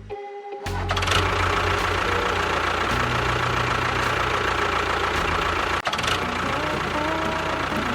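An engine running steadily with an even low pulse, starting just under a second in and stopping near the end.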